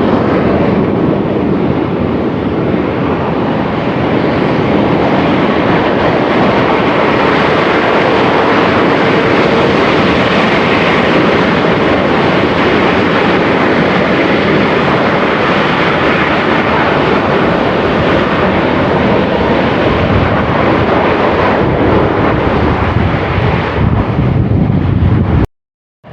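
Semeru volcano's crater venting ash continuously: a loud, steady roar that breaks off abruptly near the end.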